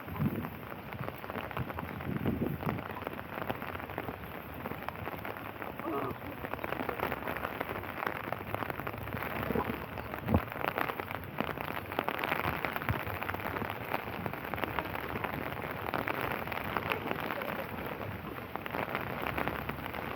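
Steady rain falling, with a dense scatter of small drop taps close by.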